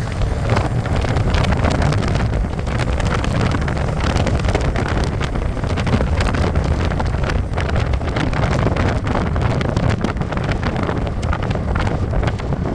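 Wind rushing and buffeting over the microphone on a motorcycle at highway speed, with the steady running of a Royal Enfield Classic 350's single-cylinder engine underneath.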